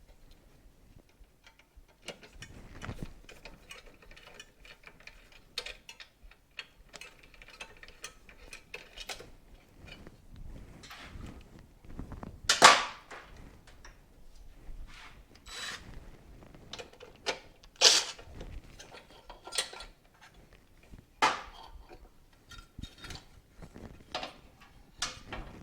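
Hand tools and metal motorcycle parts being handled during a teardown: irregular clicks, rattles and light clanks, with the loudest sharp knocks about halfway through and again a few seconds later.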